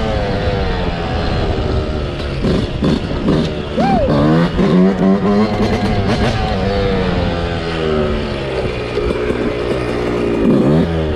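Dirt bike engine revving up and down repeatedly, its pitch rising and falling with the throttle.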